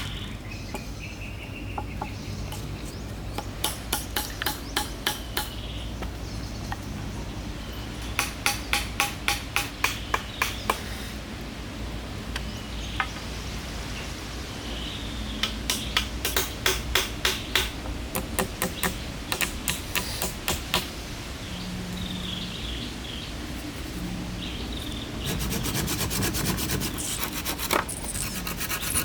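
Wood being sawn by hand: bursts of quick back-and-forth strokes, several a second, with pauses between bursts. The last burst is faster and denser.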